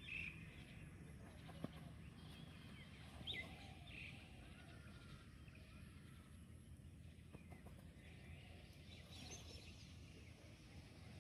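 Faint outdoor ambience with a few short, scattered bird chirps and one brief click.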